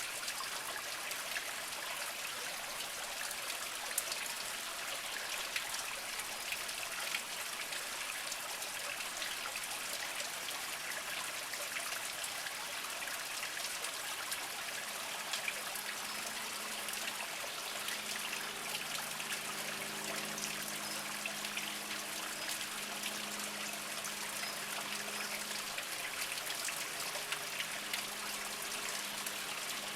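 Small mountain spring trickling over mossy rocks: a steady splashing dribble with fine droplet ticks. About halfway through a faint low hum of several steady tones joins in.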